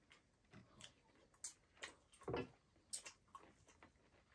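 Faint, irregular wet clicks and smacks of someone chewing pork leg meat close to the microphone, about ten in a few seconds.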